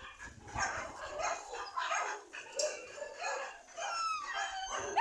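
Dog barking and yipping repeatedly, short calls several a second, some with a falling whine.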